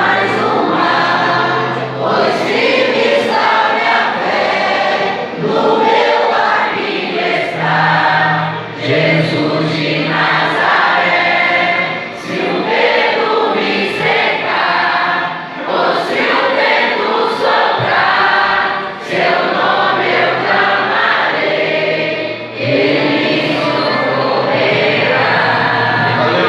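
Church congregation singing a gospel worship song together, over low held accompaniment notes that change in steps.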